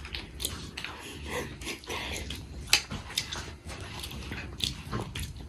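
Close-miked chewing of beetroot: wet mouth sounds with scattered small clicks and smacks.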